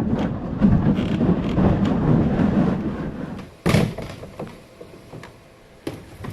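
Kayak hull scraping and rumbling as it is dragged over the ground for about three and a half seconds, then one loud thump and a few lighter knocks.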